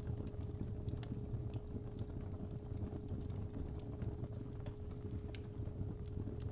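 Fireplace fire crackling, with scattered sharp pops at irregular times over a low, steady rumble. A continuous 417 Hz sine tone is held beneath it.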